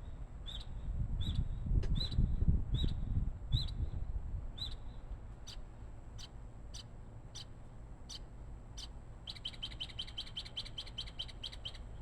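A bird chirping repeatedly in short, high calls, about one every two-thirds of a second, breaking into a fast run of chirps late on. A low rumble sits under the first few seconds.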